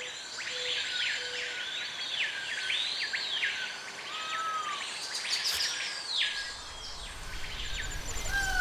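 Birds calling in a chorus: a rapid, overlapping series of chirps that sweep up and down in pitch, with a faint steady high buzz behind them.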